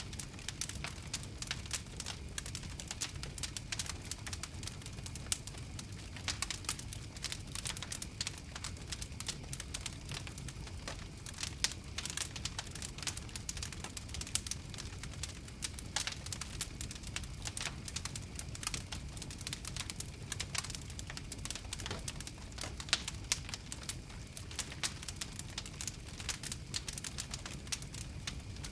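Open fire crackling: dense, irregular pops and snaps over a steady low rumble of the flames.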